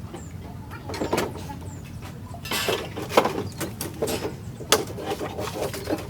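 Irregular clicks and knocks with a brief scrape about two and a half seconds in: hand work on metal parts.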